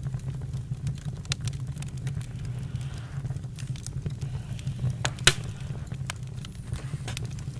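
Campfire crackling: scattered sharp snaps and pops over a steady low rumble, with one loud pop about five seconds in.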